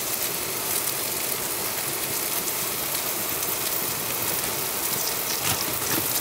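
Sausages sizzling in hot oil in a cast iron pan: a steady crackling hiss, with a few sharper pops near the end.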